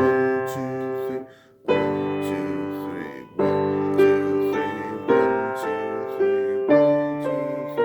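Piano playing a slow piece in three-four time, chords struck about once a second with a short pause a little over a second in.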